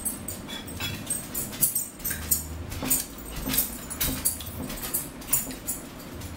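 Close-up eating sounds: chewing and wet mouth smacks, with sharp clicks throughout from forks tapping plates.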